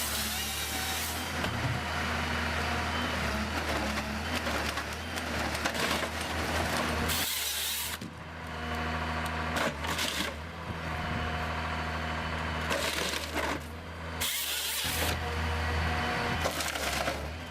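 Engine of a heavy wood-processing machine running steadily, broken by about five short loud bursts of noise.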